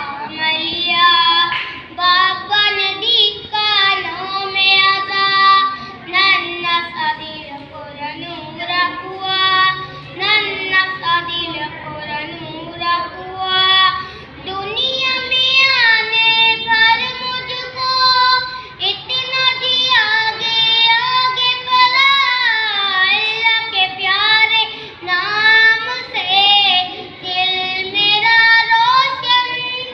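A child singing a song solo, the voice sliding between notes and wavering on held notes.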